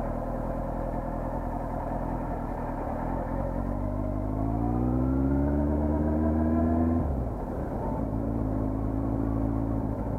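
Honda CBR400RR inline-four motorcycle engine accelerating. Its note climbs steadily for about four seconds, drops off sharply about seven seconds in, and then settles to a steadier, lower running note over a constant low rumble.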